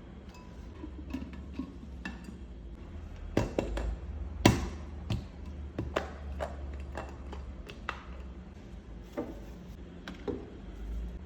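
Hard kitchenware being handled: scattered light clicks and taps with a sharper knock about four and a half seconds in, over a low steady hum.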